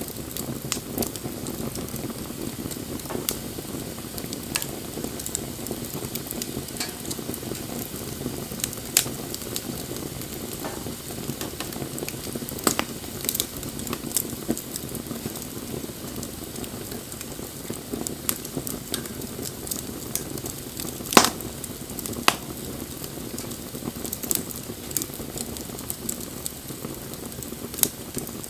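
Wood bonfire burning: a steady low rush of flame with scattered sharp crackles and pops from the burning wood, one pop louder than the rest about three-quarters of the way through.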